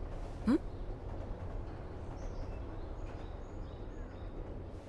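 Steady low outdoor background ambience with a few faint, short, high bird chirps scattered through it.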